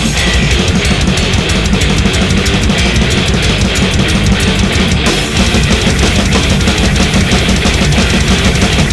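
Death/thrash metal: distorted guitars over fast, dense drumming, with a brief break about five seconds in.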